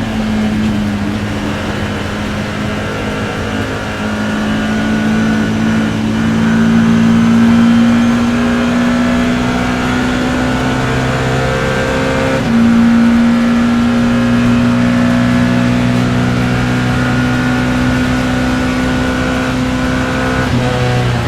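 BMW E30 M3's four-cylinder racing engine at high revs under power, heard from inside the car. The pitch climbs slowly through two long pulls, with a sudden short drop about twelve seconds in and a falling pitch near the end.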